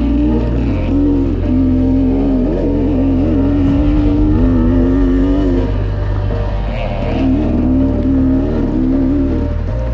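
Enduro dirt bike engine running under load, its revs rising and falling as the rider works the throttle, with background music underneath.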